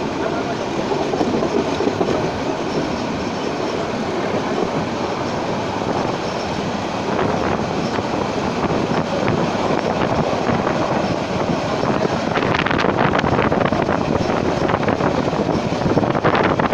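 Train running along the track: a steady rumble of wheels on rail, with sharper, louder clattering in the last few seconds.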